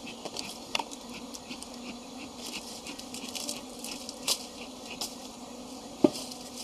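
Honey bees buzzing steadily, with scattered small clicks and crackles and one sharp knock about six seconds in.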